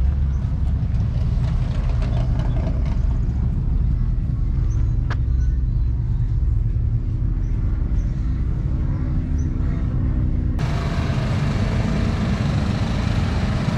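A motor vehicle's engine running with a steady low rumble. About ten seconds in, the sound changes abruptly to a noisier, brighter engine sound.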